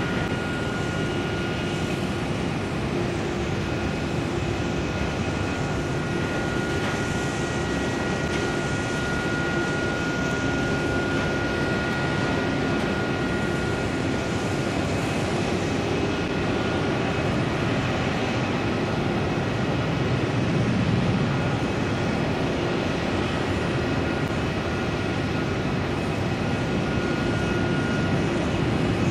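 Twin-engine jet airliner's turbofan engines, a steady roar with high whining tones held over it, growing slightly louder towards the end.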